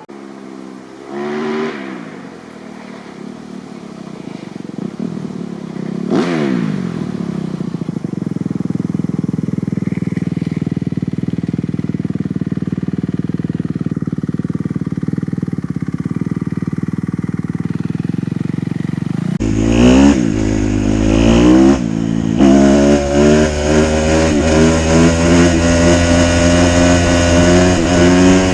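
Kawasaki KX250F single-cylinder four-stroke dirt bike engine through a full FMF 4.1 RCT exhaust: two quick throttle blips, then a long steady pull at high revs. About two-thirds through it turns suddenly louder, with two sharp revs before holding steady at high revs again.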